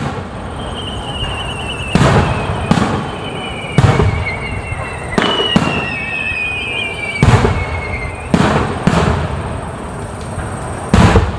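Aerial fireworks shells bursting overhead: about nine booming reports at uneven intervals, some in quick pairs. A high, wavering whistle slowly falls in pitch between the bursts.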